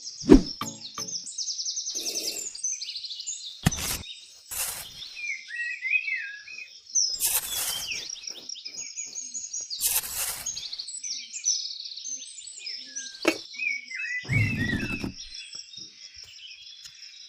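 Small birds chirping and twittering throughout. Several short knocks and scraping noises break in, about four seconds in, around seven and ten seconds, and again near fourteen seconds.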